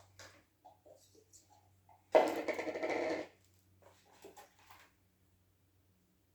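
Slime being handled and squeezed, with small sticky clicks and crackles, and one louder squelching noise lasting about a second, a couple of seconds in.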